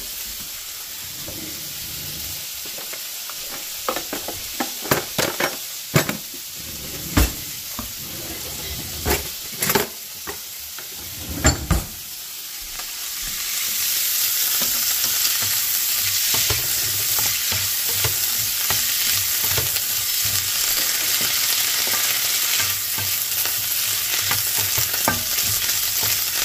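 Fiddleheads (ostrich fern) frying in a nonstick pan, sizzling while a wooden spatula stirs them. The first half holds a series of sharp knocks and clatters over a quieter sizzle. About halfway through, the sizzle grows louder and steadier.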